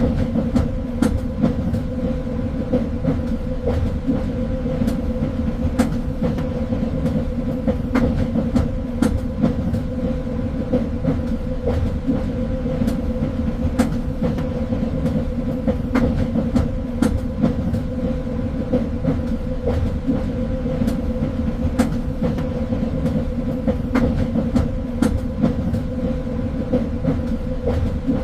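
Train running steadily along the track: a continuous low rumble with a steady hum, and irregular clicks and knocks from the wheels on the rails.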